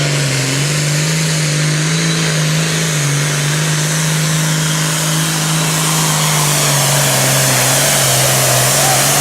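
Super Farm pulling tractor's turbocharged diesel engine at full throttle under load, pulling the sled down the track. It is a loud, steady drone whose pitch wavers only slightly.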